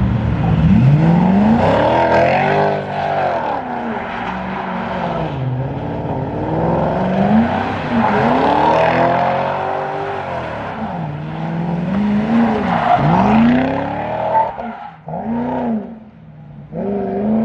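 Car engines revving hard, the pitch climbing and falling again and again with several engines overlapping; the sound drops away briefly near the end before picking up again.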